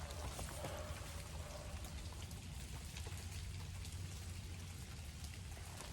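Faint, steady rain patter with scattered light drip ticks over a low hum.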